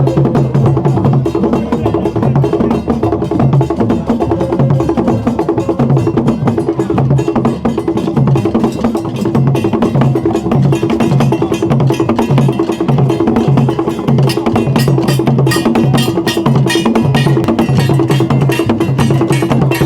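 Percussion music with a steady, fast beat: low drum strokes repeating under dense, sharp clicking strikes.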